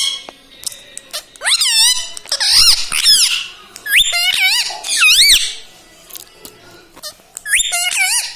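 Ring-necked parrot giving a series of five or six short, high calls, each sweeping up and down in pitch, with short pauses between them.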